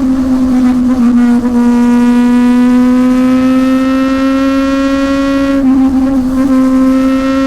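Motorcycle engine running hard at high revs, a loud, steady drone that climbs slowly in pitch and wavers briefly twice, about a second in and near the end.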